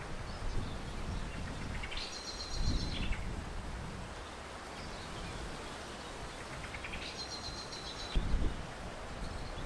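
A songbird sings a short trilled phrase twice, about five seconds apart, each rising, holding high, then dropping away. Under it, wind gusts rumble on the microphone.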